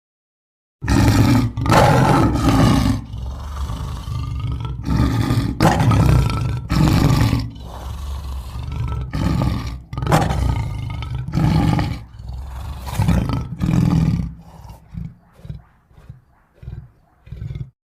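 A string of monster roar and growl sound effects, one after another, starting about a second in; the later ones are shorter and quieter.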